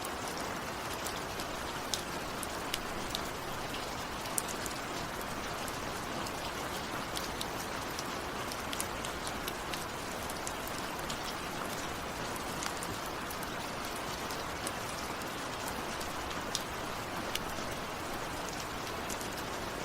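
Steady rain, with sharp ticks of single drops striking close by scattered irregularly through it.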